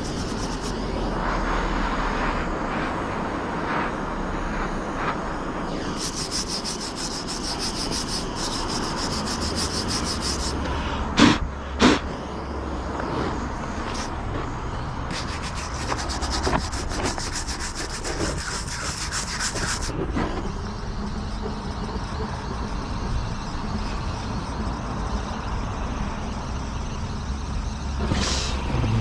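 Power drill boring a slanted entrance hole through the wooden wall of a log beehive: a steady grinding of bit in wood, with two stretches of a higher, rattling whine and two sharp knocks about 11 and 12 seconds in.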